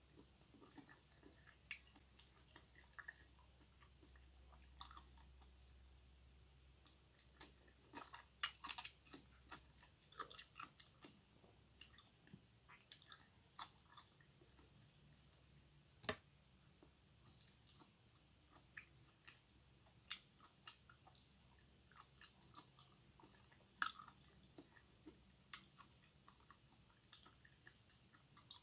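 Close-miked chewing of raw pork liver: quiet, wet mouth clicks and smacks scattered through, with a few sharper clicks about a third, half and three-quarters of the way in.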